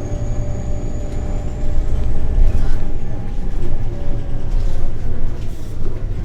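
Scania L94UB CNG city bus heard from inside the cabin while under way: a steady low engine and road rumble with mid-pitched drivetrain tones, and a faint high whine that rises slightly over the first couple of seconds.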